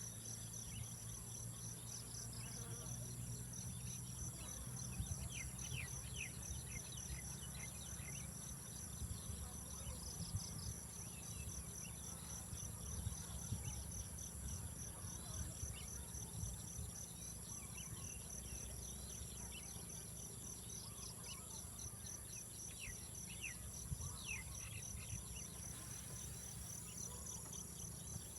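A chorus of night insects such as crickets: one steady high-pitched trill layered over a fast, evenly pulsing trill, with scattered short chirps.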